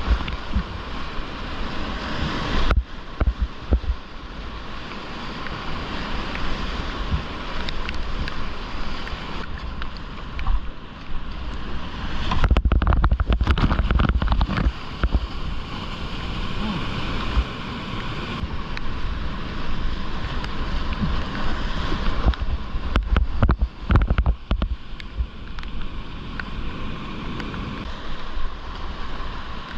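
Whitewater rapids rushing and splashing around a kayak, with wind buffeting the microphone. Heavier bursts of splashing and thumping come about 12 seconds in and again about 23 seconds in.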